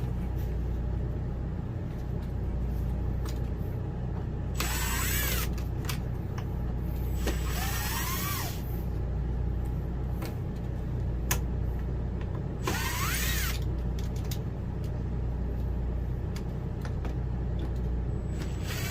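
Power drill running in three short spells of about a second each, its motor pitch rising and falling with each trigger pull as it works screws. A few sharp clicks fall between the spells, over a steady low hum.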